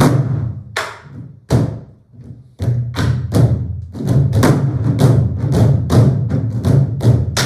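Ensemble of Korean buk barrel drums struck together with sticks, each stroke a deep boom with a sharp attack. A few spaced strokes come first, then from about two and a half seconds in a quick, dense rhythm runs on.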